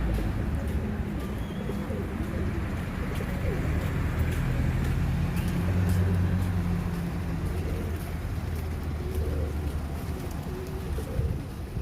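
Pigeons cooing, several low wavering coos repeating through the flock as it feeds on scattered corn, over a steady low rumble.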